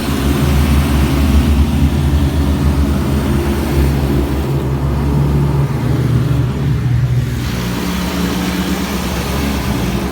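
Mr Magic Storm automatic car wash spraying high-pressure water jets over the car, a loud, steady rush of spray over a deep drone from the machine, heard from inside the car. The rush thins briefly about halfway through.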